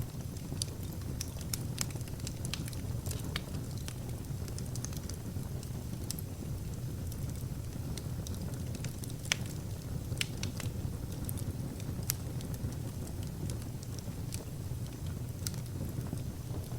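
Wood fire burning: a steady low rumble of the flames with frequent sharp crackles and pops of the burning logs, scattered irregularly, one louder pop about nine seconds in.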